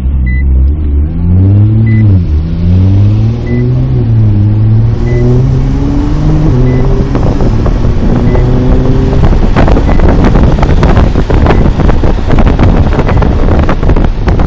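Nissan GT-R R35 engine accelerating hard through the gears, its pitch climbing and dropping at each upshift. About nine seconds in, a loud rushing wind noise swamps it. A faint short beep repeats about every second and a half.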